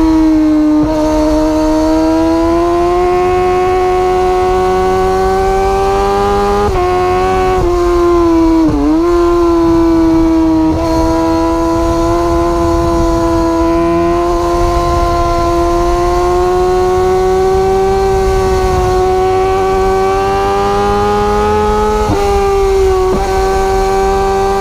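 Superbike engine running at high revs, its note held fairly steady and slowly rising and falling, with a few brief dips and breaks in pitch along the way.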